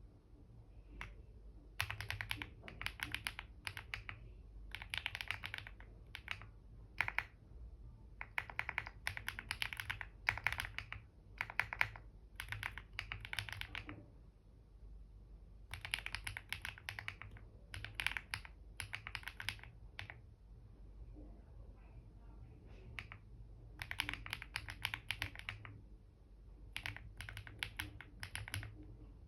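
Computer keyboard typing in bursts of rapid keystrokes, with pauses of a second or more between runs.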